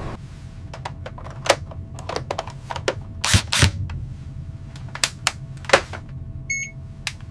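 A dozen or so irregular sharp clicks and knocks, the loudest two close together near the middle, over a low steady hum.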